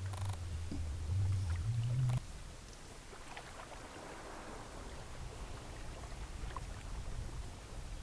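A cow mooing: one long, low call that rises in pitch at its end and stops about two seconds in. A low, steady rumble follows.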